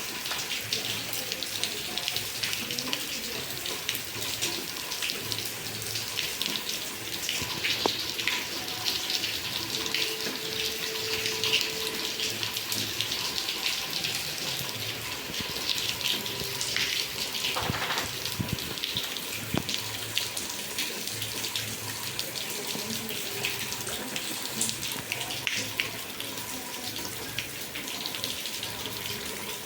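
Heavy rain falling steadily, with water splashing and pattering.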